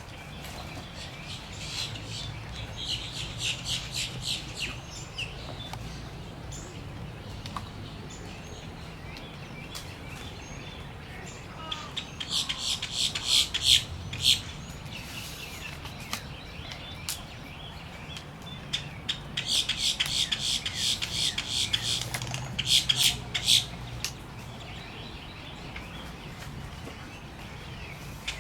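Wood stork nestlings in a rookery clamouring: bouts of rapid, harsh, squawking begging calls, three bursts of them coming and going, over a steady low rumble.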